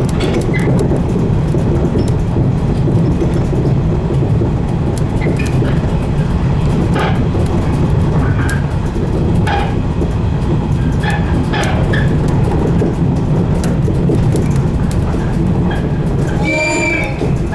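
115-series electric train running along the line, a steady low rumble of wheels and motors with scattered clicks from the rails. Near the end comes a brief high-pitched squeal.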